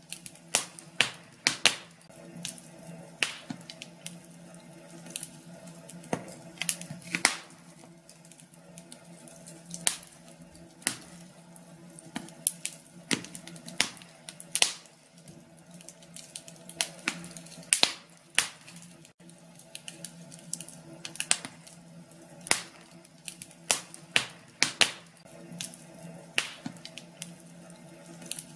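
Wood fire crackling in a fireplace: irregular sharp pops and snaps, a few a second, over a low steady hiss of burning.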